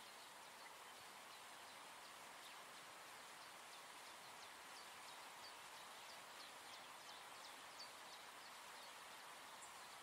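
Faint nature ambience: a soft even hiss with many small, quick bird chirps, several a second, thickest in the middle.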